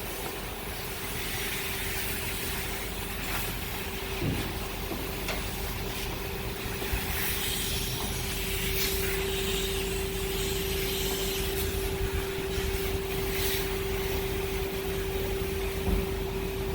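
Self-serve car wash spray wand hissing as it applies engine cleaner, over a steady pump hum that cuts off near the end.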